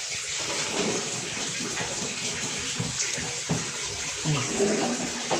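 Water running steadily out through a washing machine's drain valve, the valve working again after its spring was stretched, with a couple of knocks partway through.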